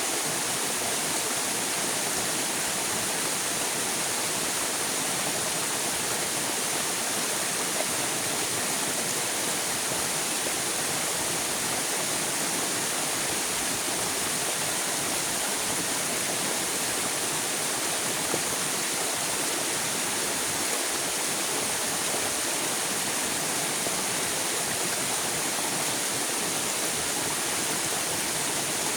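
River water rushing steadily, an even hiss of flowing water with no breaks.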